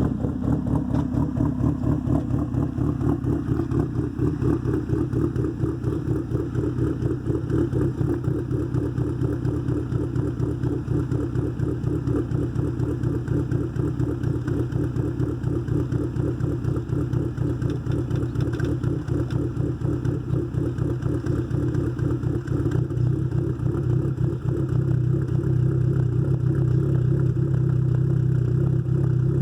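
Dodge SRT-4's turbocharged 2.4-litre four-cylinder, fitted with a big turbo and Crower performance camshafts, idling on a cold start with a choppy, pulsing idle from the cams. The idle gets a little louder and steadier from about three-quarters of the way through.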